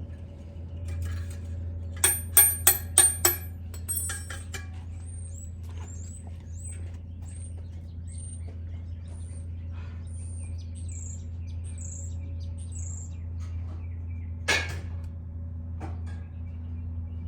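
Five quick ringing metal clinks, then a small bird chirping a run of short, high, descending notes over a steady low hum, with a single knock near the end.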